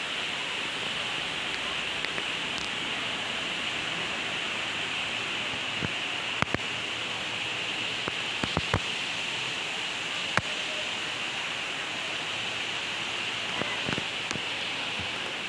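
Steady rushing of forest water, an even hiss with no break, with a few sharp clicks around the middle.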